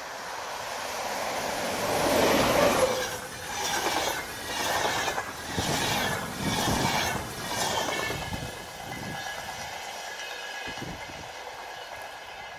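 A locomotive-hauled passenger train with a PKP EU07 electric locomotive passing through at speed: the sound swells as the locomotive goes by, then comes in a run of rhythmic pulses about a second apart as the coaches pass, and dies down to a fainter rush near the end.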